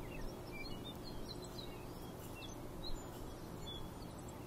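Outdoor ambience: small birds chirping in short, scattered high notes over a steady low background noise.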